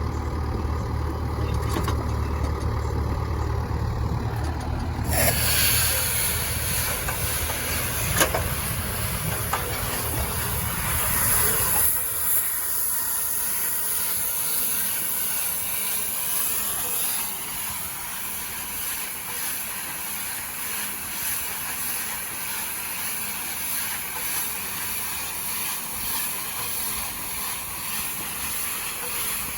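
A tractor engine runs with a low, steady hum that stops about twelve seconds in. About five seconds in, a steady hiss starts suddenly and carries on to the end.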